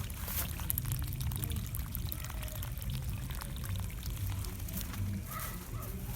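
Water pouring and spattering steadily, as when a plant is watered, over a low steady rumble.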